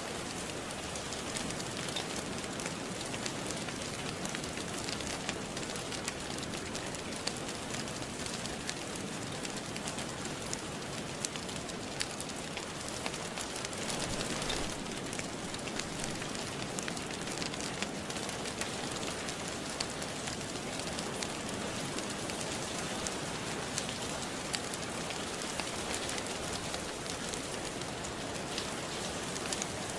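Steady rain falling with a gently crackling wood fire, many small sharp pops and ticks over an even hiss, swelling briefly about halfway through.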